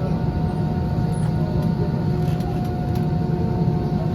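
Steady cabin noise inside a jet airliner before takeoff: a constant low engine rumble with a steady whine over it.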